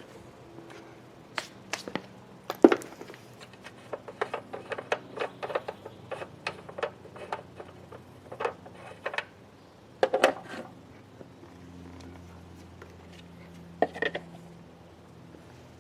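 Irregular clinks and knocks of tools and metal parts being handled while an engine is closed up after an oil drain, the sharpest knock about two and a half seconds in and another cluster near the ten-second mark, over a faint steady hum.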